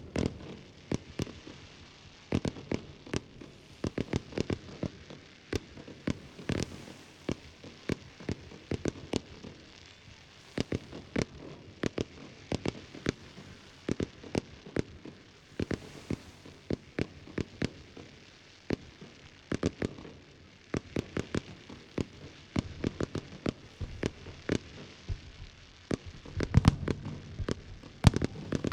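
Fireworks going off in a long run of sharp bangs and crackling reports, several a second, with a dense, louder cluster near the end.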